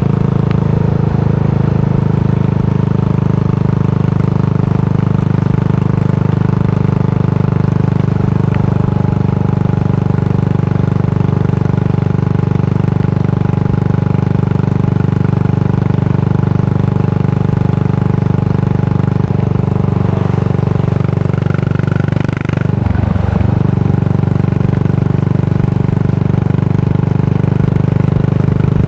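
Yamaha SR400's air-cooled single-cylinder four-stroke engine through a Goods Tapered Cone slip-on muffler, running at steady revs. The revs dip briefly and pick up again about three-quarters of the way through.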